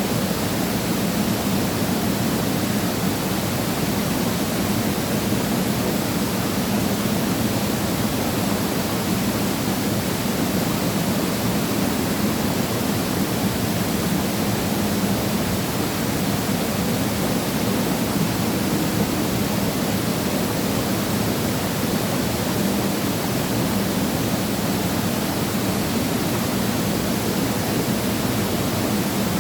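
Valley waterfall pouring steadily: an even, unbroken rush of falling water that does not change.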